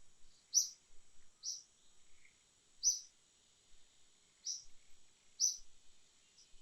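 Short high chirps from a bird, repeated about once a second, over a faint steady high insect whine.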